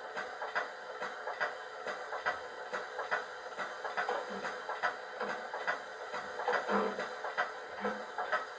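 Sound decoder of a Piko BR 50 garden-railway steam locomotive model playing steady steam chuffs through its small onboard speaker, about two to three chuffs a second over a constant hiss.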